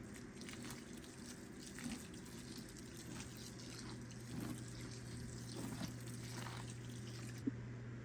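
Water trickling and dripping in irregular small splashes over a steady low hum. The splashing stops suddenly near the end.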